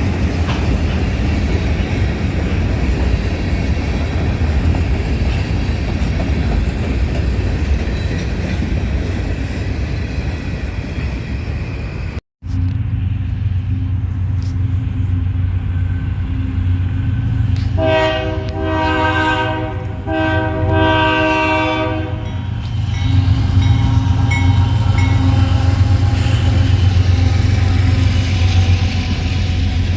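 Train noise with a steady rumble, broken by an abrupt cut; then a diesel locomotive runs and sounds its horn in two blasts of about two seconds each, back to back, and its engine grows louder near the end.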